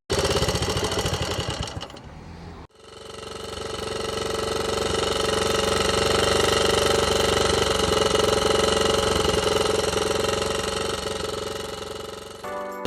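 Small Honda Cub-based single-cylinder motorcycle engine running, built on a Sports Cub special engine. The sound breaks off about two and a half seconds in, then comes back steady, swelling over several seconds and dying away again near the end.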